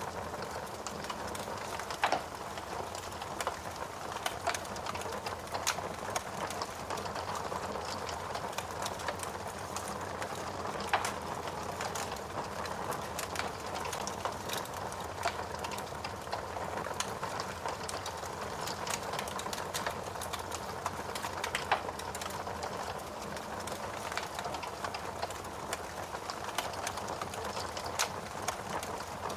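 Steady rain with a wood fire crackling, its sharp pops coming every few seconds.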